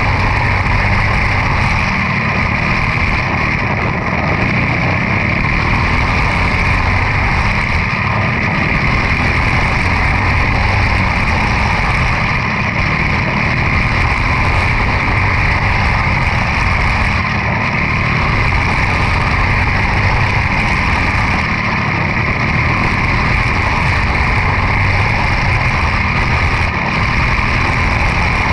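Quarter midget race car's Briggs & Stratton Animal single-cylinder engine running loud and steady at race speed.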